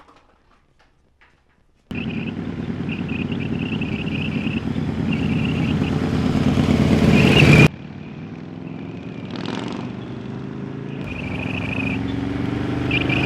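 Motorcycle engine sound starting abruptly after a short quiet and growing louder for about six seconds before cutting off suddenly. A brief whoosh follows, then another engine sound comes in near the end.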